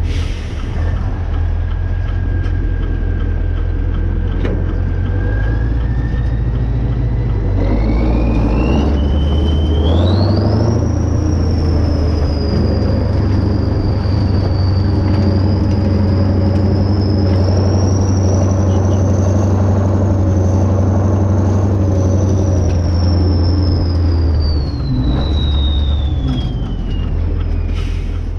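Kirovets K-700A tractor's diesel engine running steadily, with a high whine that climbs sharply in pitch a few seconds in, holds high, and falls again near the end as the engine speed changes.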